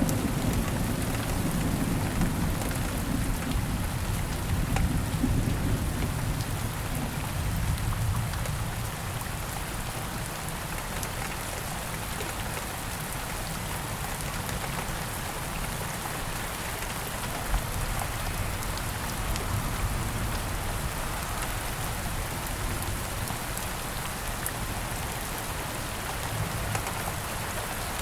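Steady rain falling, an even hiss of drops. Over the first several seconds there is a low rumble that fades away.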